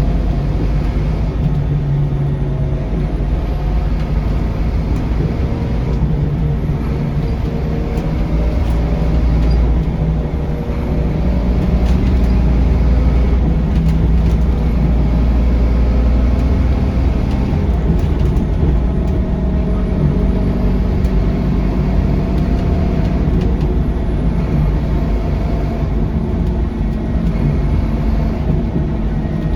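Scania K230UB city bus heard from on board: the engine and driveline drone steadily, the pitch drifting up and down as the bus speeds up and slows, with occasional light rattles.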